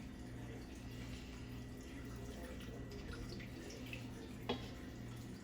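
Water dripping and trickling in a kitchen sink while raw chicken is handled, with small scattered ticks over a steady low hum and one sharp click about four and a half seconds in.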